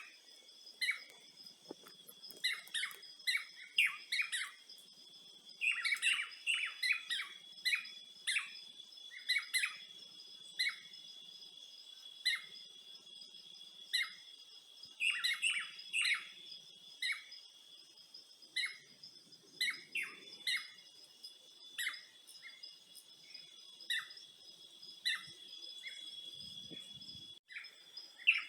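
Birds chirping in short calls, one or two a second with busier flurries, over a steady high-pitched drone of insects.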